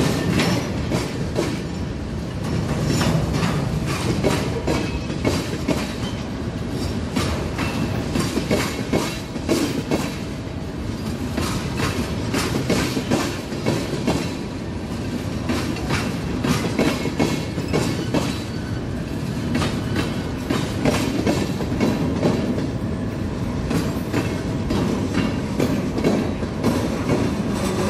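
Freight train cars rolling past, their steel wheels clacking steadily over rail joints with a continuous rumble.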